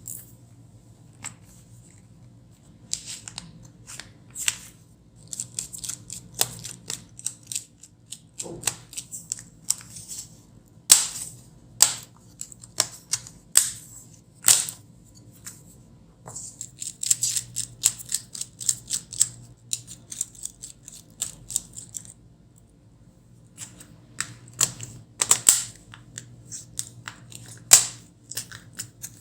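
Hand work on a laptop's plastic case and screws: irregular sharp clicks and knocks, with stretches of scratchy scraping.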